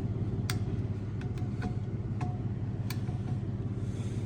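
A few small sharp metal clicks as recoil starter parts (washer, spring, housing) are handled and seated. Under them runs a steady low background hum.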